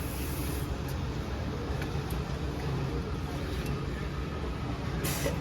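Steady low rumble of motorcycle engines idling, with a brief hiss about five seconds in.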